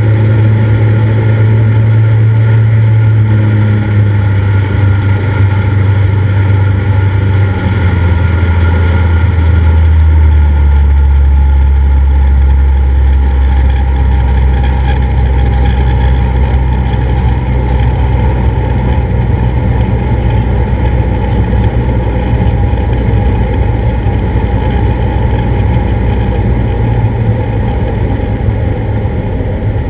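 Cessna 172's piston engine and propeller running steadily; about ten seconds in the engine note drops lower, a power reduction, and then holds.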